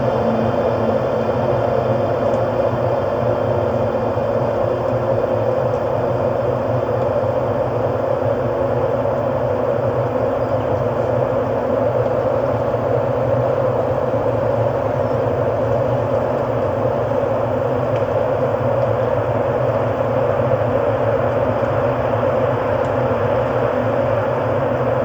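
Ambient drone music: a steady, dense, unbroken wash of sustained tones with no beat or strikes.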